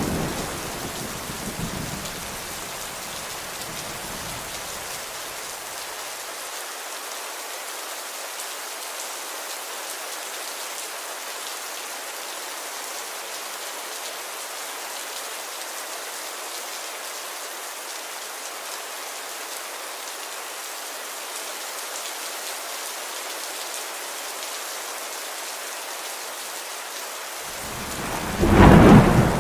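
Steady rain with a thunderstorm: a roll of thunder dies away over the first few seconds, and near the end another loud rumble of thunder builds up.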